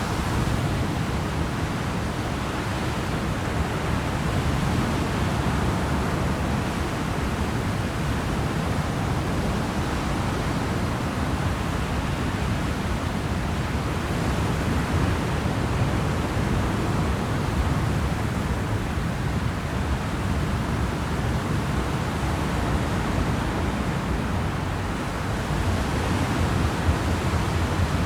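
A ferry underway: a steady rush of wind and water with a low rumble underneath.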